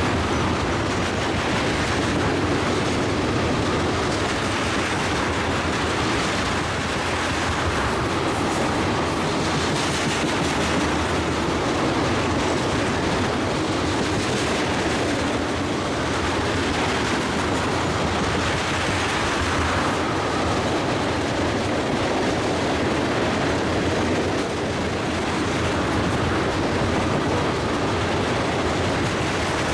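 Norfolk Southern petrol train's tank cars rolling past, a steady, continuous rumble of steel wheels on rail.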